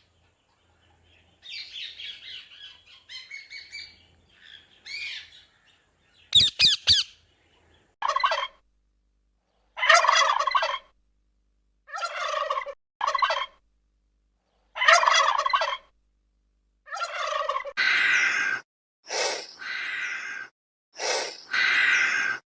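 Domestic fowl calling: soft chirps, then from about eight seconds in a run of loud calls, each about a second long, every couple of seconds.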